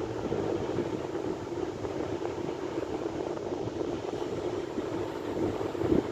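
Sea waves washing onto the shore in a steady rush of surf, swelling a little louder near the end.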